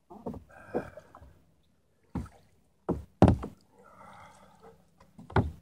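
Irregular knocks and bumps on a small kayak's hull as the paddler settles into the cockpit, about six in all, the loudest a little after three seconds in.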